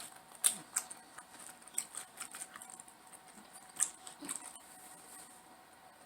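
Close-miked eating sounds: chewing with a few sharp, crisp clicks or crunches, the strongest about half a second in and near the middle.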